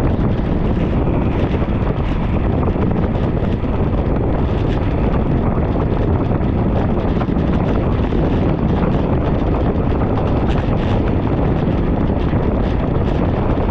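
Steady, loud wind rush on the microphone of a camera riding along on a bicycle, with faint light ticks scattered through it.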